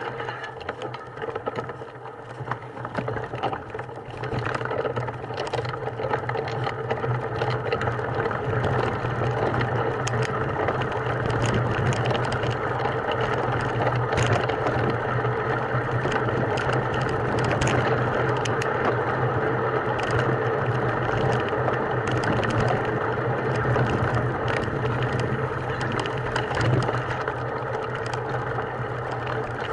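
A small engine running steadily, with scattered clicks and rattles over it.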